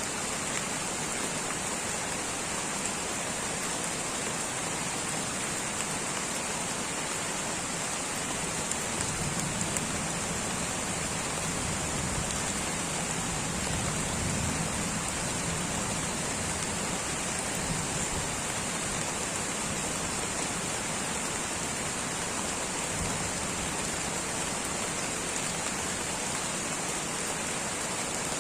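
Light rain falling steadily in a tropical rainforest, an even hiss with a bright high edge. A faint low rumble swells and fades in the middle.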